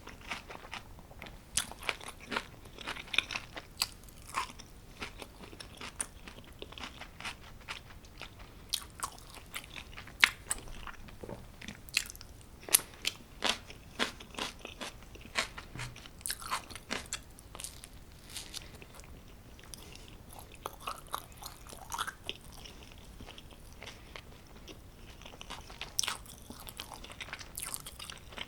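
A person chewing homemade pizza, with many sharp, irregular mouth clicks and crunches.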